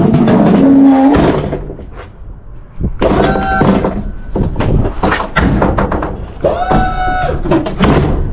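A run of knocks and thuds, with music coming in about three seconds in as held notes.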